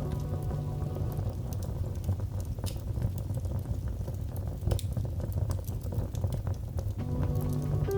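Wood fire crackling, with scattered sharp pops and snaps over a low steady rumble of burning. Soft sustained music notes fade out just after the start and return about seven seconds in.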